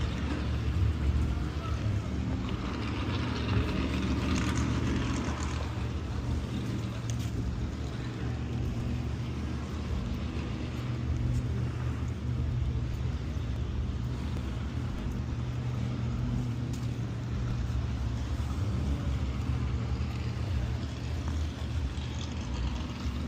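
A car engine running with a steady low drone.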